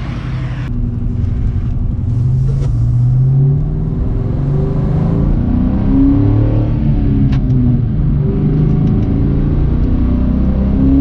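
Car engine under way, its pitch climbing as it accelerates and then falling back, several times over.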